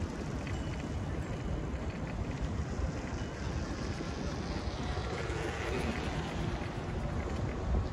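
Wind rushing over a phone's microphone during a ride, a steady low rumble and hiss, with a brighter rush swelling briefly about five seconds in.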